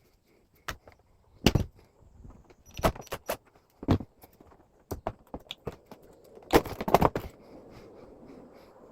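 Irregular clicks, knocks and light rattling of hard parts being handled, as in taking apart the plastic casing and components of a wall-mounted air conditioner, with a cluster of louder knocks about two-thirds of the way through.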